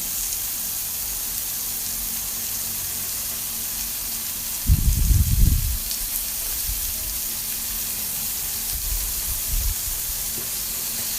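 Pork and vegetables sizzling on a hot grill, a steady hiss, with a brief low rumble about five seconds in and a weaker one near the end.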